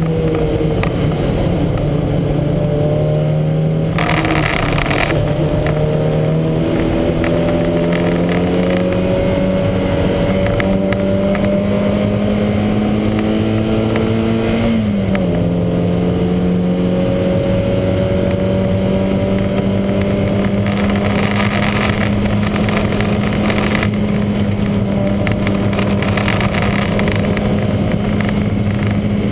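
Lancia Montecarlo's four-cylinder engine heard from inside the car at racing speed. Its note climbs slowly under load, drops sharply at a gear change about halfway, then holds nearly level. The car is racing with a misfire.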